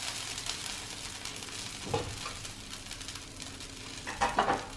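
Dosa sizzling on a hot iron pan as its second side cooks: a steady frying hiss. A brief louder noise cuts in near the end.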